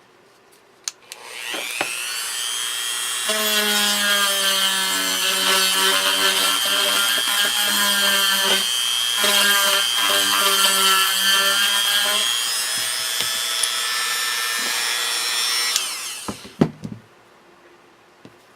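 Small electric drill running: it spins up about a second in, whines steadily for about fourteen seconds while boring a hole in a small craft piece, then stops, followed by a few sharp clicks.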